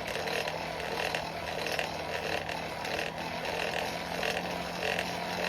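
Coal forge blower running steadily, a low hum under an even rush of air forced into the fire to bring the chain link up to a welding heat.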